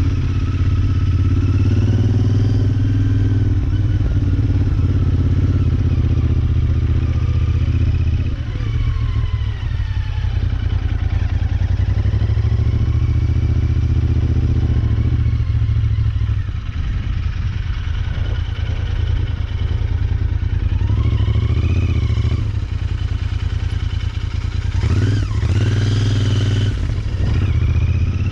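Royal Enfield Interceptor 650's parallel-twin engine running at low speed, its revs rising and falling again and again, with a few quicker rev rises near the end.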